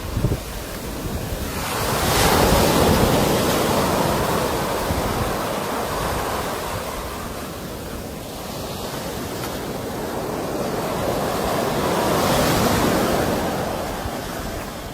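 Sea waves washing on the shore in a continuous rush of surf. It swells into a larger surge about two seconds in and another near twelve seconds, ebbing between them.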